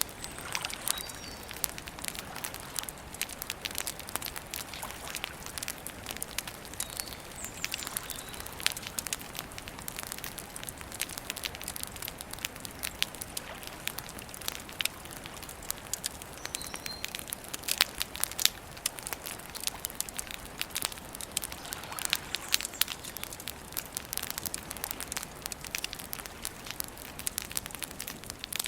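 Campfire crackling and popping in dense, irregular snaps, with a few louder pops a little past the middle. Occasional faint short bird chirps sound above it.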